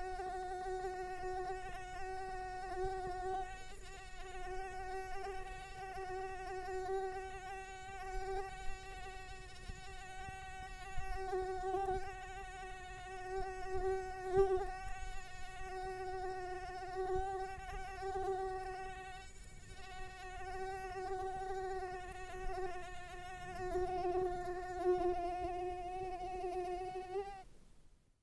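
A flying insect buzzing: a steady whining hum that swells and fades a little in loudness and wavers slightly in pitch, then cuts off near the end.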